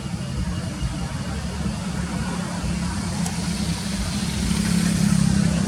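A motor vehicle engine idling steadily, growing somewhat louder about four seconds in.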